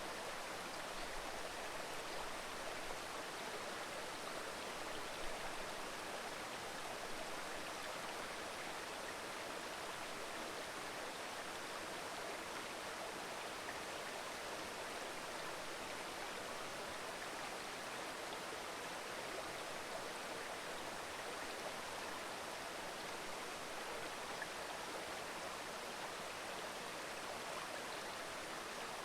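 Mountain river babbling over rocks: a steady rush of flowing water.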